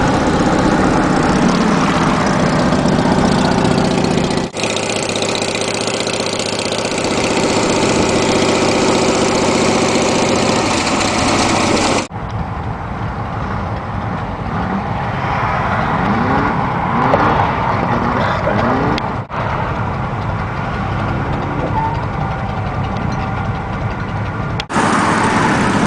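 Motorcycle engine running under way with wind and road rush, the revs rising in short climbs through the gears. The sound breaks off and jumps abruptly several times where separate clips are joined.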